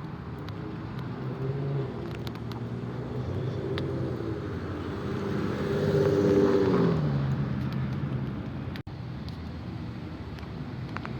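Car engine revving as a car drives past, its pitch rising and falling, loudest about six seconds in and then dropping away.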